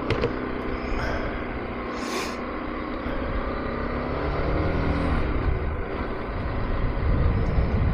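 KTM 390 Adventure's single-cylinder engine running as the motorcycle is ridden, its pitch rising as it accelerates about halfway through, with low wind rumble building near the end.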